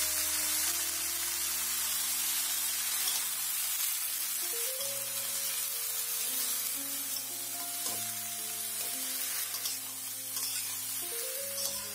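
Cut yard-long beans and potato matchsticks frying in hot oil in a metal wok, with a steady sizzle and a spatula stirring through them. Background music of held notes plays underneath.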